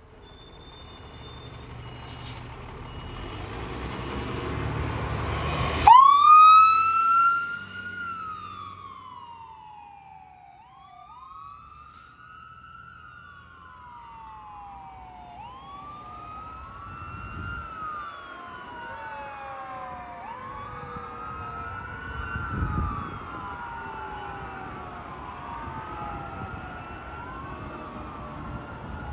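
Fire engine pulling out with its diesel engine building up, then its siren starting suddenly with a fast rise and slow fall in pitch, followed by repeated overlapping rising-and-falling wails as the truck moves away. A brief low blast sounds about three quarters of the way through.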